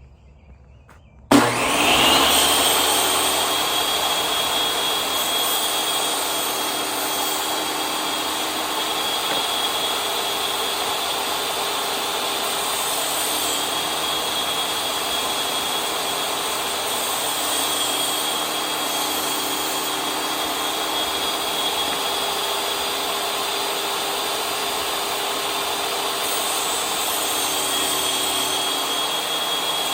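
Electric table saw switched on about a second in, spinning up and then running steadily with a high whine.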